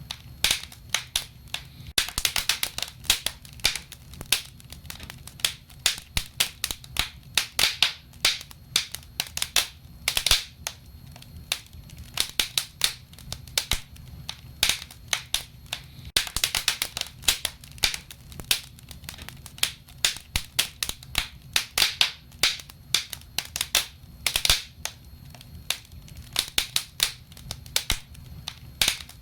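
Wood fire burning in a fireplace: irregular crackles and pops, several clustering into quick runs, over a low steady rumble of the flames.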